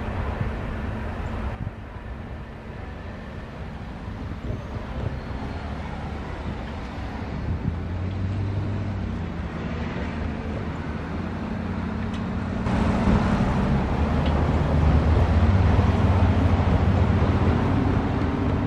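Freight train and road vehicles at a railroad grade crossing: a continuous rumble with a steady low engine drone. The sound drops abruptly about a second and a half in and grows sharply louder near 13 s.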